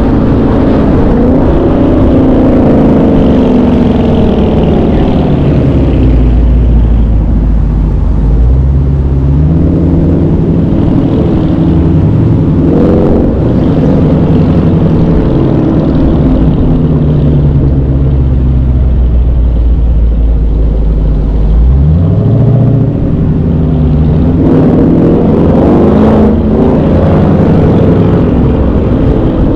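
V8 muscle-car engine running loud, revving and settling back toward a low rumble, its pitch sweeping up and down, with a sharp rev about two-thirds of the way through.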